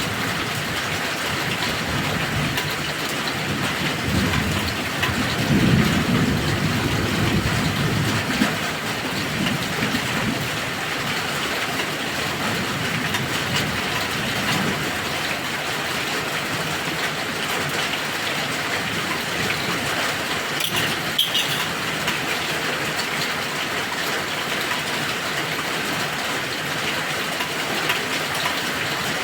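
Heavy rain falling steadily, with a low rumble of thunder swelling and fading from about four to nine seconds in.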